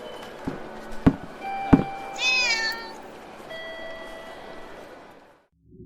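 A cat meowing once, a short cry about two seconds in, after three sharp knocks, over a faint background hiss that fades out near the end.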